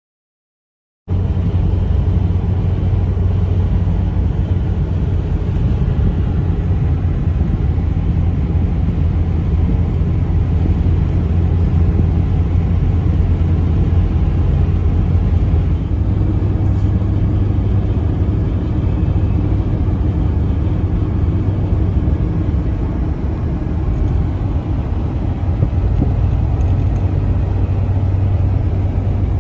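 Steady low rumble of a Ford F-150 pickup truck driving, engine and road noise, starting abruptly about a second in.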